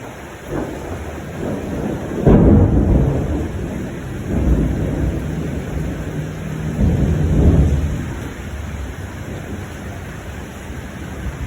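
Thunder rumbling over steady rain. The loudest roll comes about two seconds in, with further rolls around four and a half and seven seconds.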